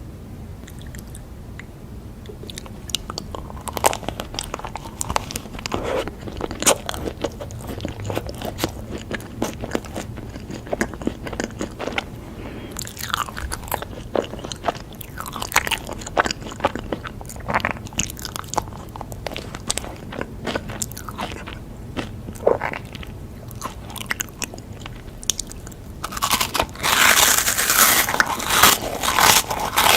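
Close-miked biting and chewing of a crunchy chocolate snack, a run of sharp crisp crunches that becomes denser and louder near the end.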